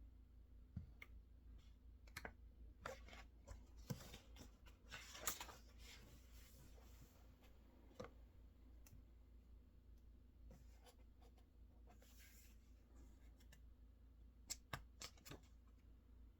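Faint, sparse desk-work sounds: scattered single clicks, with a brief rustle or scrape about five seconds in and again about twelve seconds in, and a few quick clicks near the end.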